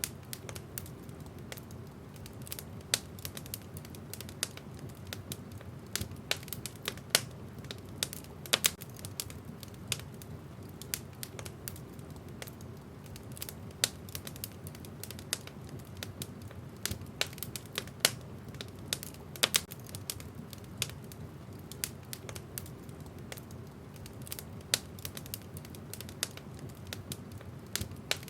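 Wood fire burning in a fireplace, with irregular crackles and a scatter of sharper pops from the burning logs over a steady low rumble of the flames.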